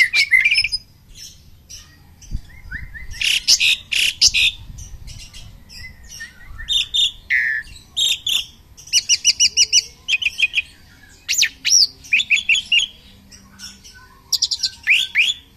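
An Asian pied starling and a white-rumped shama singing against each other: loud bursts of chirps, sliding whistles and quick runs of repeated notes, broken by short pauses.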